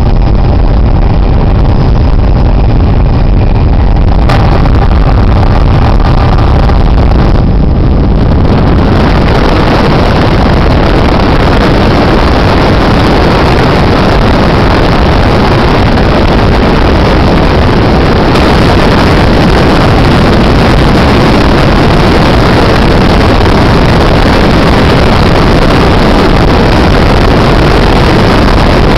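Helicopter in flight heard from on board: loud, steady engine and rotor noise. About eight seconds in it gives way to a louder, hissier rush that carries on to the end.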